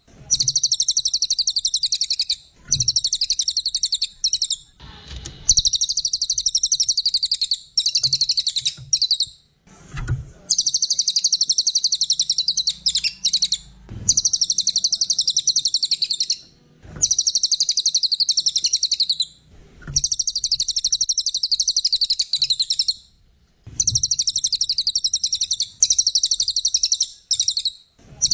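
Cililin singing a high, rapid chattering trill in phrases of two to four seconds each, repeated over and over with short pauses between them.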